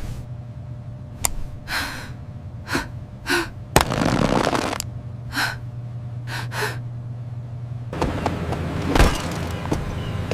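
A series of short gasps and breathy bursts, with one longer rushing burst about four seconds in and a few sharp clicks, over a steady low hum.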